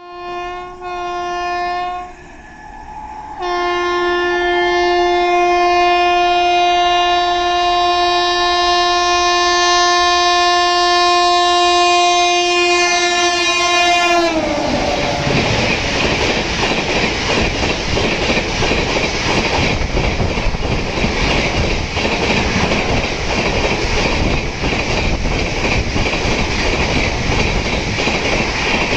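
An express train's horn sounds a short blast, then a long blast of about ten seconds whose pitch drops as the locomotive passes. Then comes the loud rush and clatter of the coaches running through at high speed, about 130 km/h.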